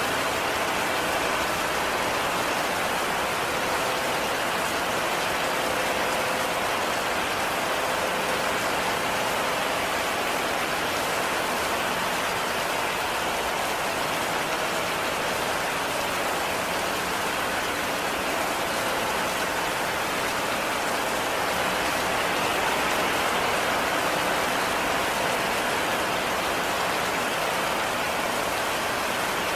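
Heavy rain falling steadily, a dense, even hiss of drops with no lulls.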